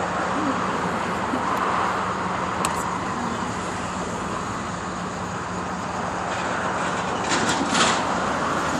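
Steady road traffic noise: a continuous rush of car tyres and engines, with a low hum and a louder swell near the end as a vehicle passes close.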